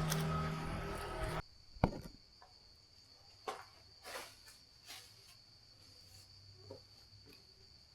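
Crickets chirring in a steady high trill. A loud low mechanical hum cuts off abruptly about a second and a half in, followed by a sharp click and a few soft knocks.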